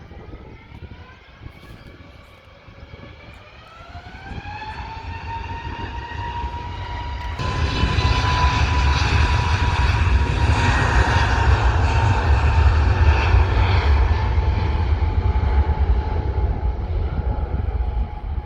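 Airliner's engines spooling up with a rising whine that levels off into a steady high tone. About seven seconds in, a loud, deep rumble suddenly joins it and stays to near the end.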